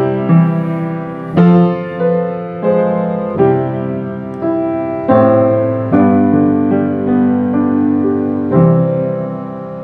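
Piano playing slow, soft chords, each struck and left to ring and fade; the last chord comes near the end and is held.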